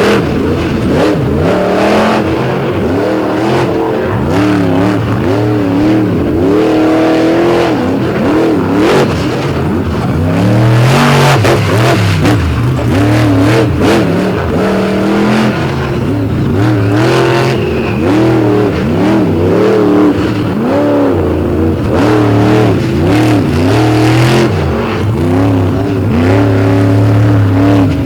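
Monster truck engine revving hard again and again, its pitch climbing and falling as the throttle is worked on and off, with a few sharp knocks.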